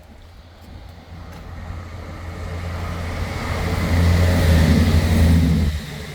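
A motor vehicle's engine passing close by, growing louder over several seconds, then dropping off suddenly near the end.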